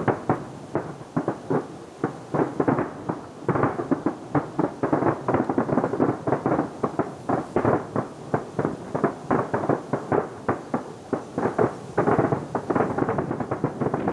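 Aerial firework shells bursting in a rapid barrage (a starmine), a dense run of sharp bangs several times a second with a rumbling echo between them.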